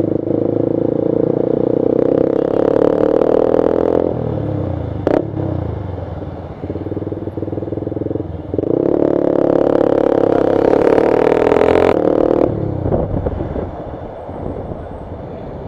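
Motorcycle engine running at speed, easing off about four seconds in, with a short click about a second later, then accelerating again and easing off near the end.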